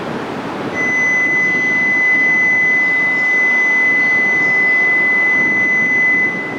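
A steady, high-pitched electronic tone sounds for about five and a half seconds, starting and stopping abruptly, over the background noise of a railway station.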